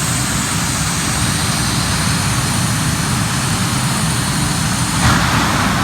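Jet dragster's turbine engine running with a steady high whine over a low rumble. About five seconds in, the whine stops and a louder rushing noise takes over.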